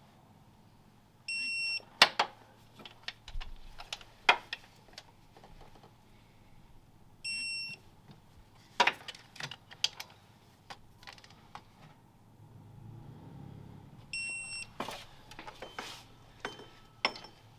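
Three short electronic beeps, each about half a second long and about six seconds apart, amid scattered sharp clicks and knocks of hand tools on metal.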